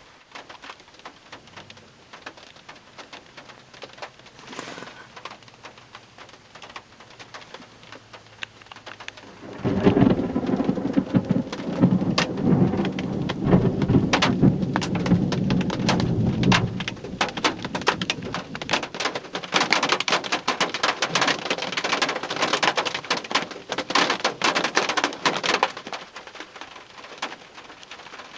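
Thunderstorm: rain patters lightly, then about ten seconds in thunder breaks suddenly and rumbles loudly for about seven seconds. The rain grows heavy with dense drop hits and eases off near the end.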